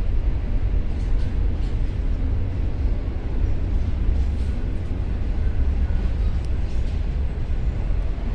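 Slow-moving double-stacked container freight train passing, a steady low rumble with a few faint high ticks.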